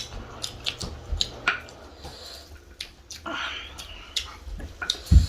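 Close-up eating sounds: wet chewing and lip smacks with scattered sharp clicks, a few hissy, slurp-like smears in the middle, and a low thump near the end.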